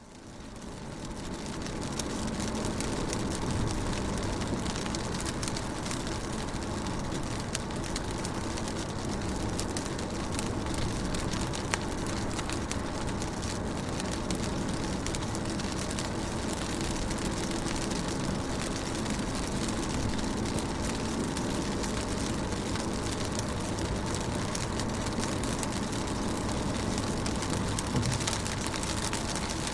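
Rain falling on a car window, heard as a steady hiss dotted with many small drop ticks. The sound fades in over the first two seconds.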